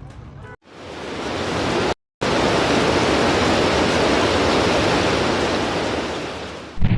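Loud, steady rushing of a floodwater torrent, broken by two brief cuts to silence, with a short low thump just before the end.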